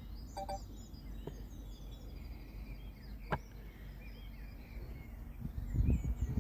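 Small birds chirping and singing over a low wind rumble on the microphone, which swells near the end. A pair of short two-note beeps comes right at the start, and a single sharp click about three seconds in.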